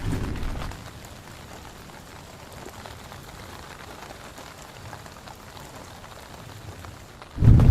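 Heavy rain falling steadily. A low rumble of thunder dies away in the first second, and a loud thunderclap breaks in suddenly near the end.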